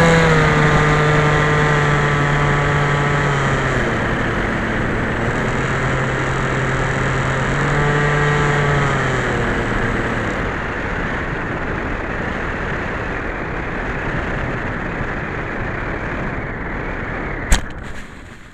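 Electric motor and propeller of a Skyhunter FPV model plane running over steady wind rush. The motor tone steps down twice as the throttle is eased, picks up again once, then stops near the middle, leaving only the rush of air. A sharp click comes near the end.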